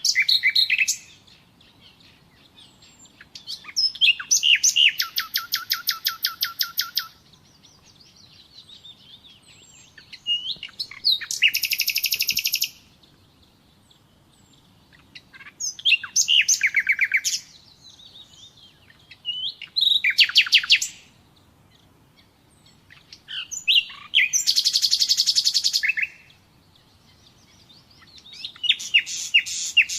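Nightingale singing: separate phrases of one to three seconds, many built of fast rapidly repeated notes, with pauses of a couple of seconds between them.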